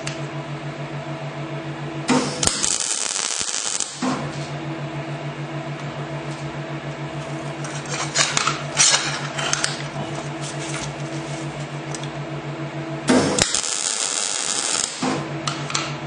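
Two MIG tack welds, each a burst of arc crackle and hiss lasting about two seconds: the first about two seconds in, the second near the end. A steady electrical hum runs underneath, with a few clicks and knocks between the tacks.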